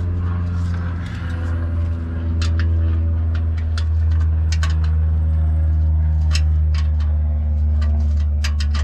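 A steady low hum dominates throughout, with scattered sharp metallic clicks in small groups from a few seconds in, as a 3/8 ratchet works the bolts on the transmission cover.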